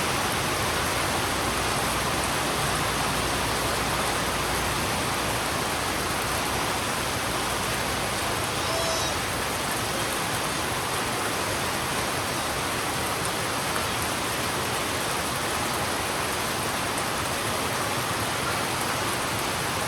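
Heavy rain falling steadily on a road, an even hiss with no let-up.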